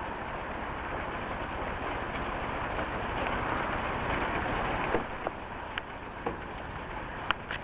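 Heavy rain falling, mixed with the hiss of wet traffic. The hiss swells and then drops off suddenly about five seconds in, followed by a few sharp ticks of drops hitting close by.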